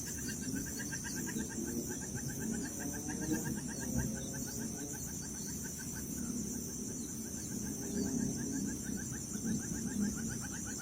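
Birds chirping: a fast, even run of short repeated chirps over a constant high drone and low rumbling noise.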